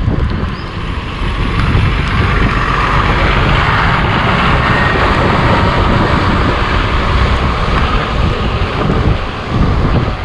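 Wind buffeting the microphone of a moving bicycle camera, with a motor vehicle passing close by: its tyre and engine noise swells from about a second and a half in and fades near the end.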